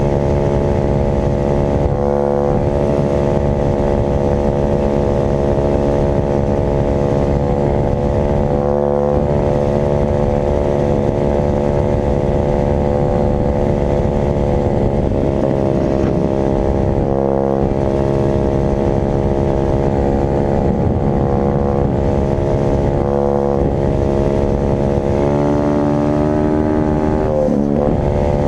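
Dirt bike engine running at a steady, high speed, with brief dips in a few places and a small change in pitch near the end.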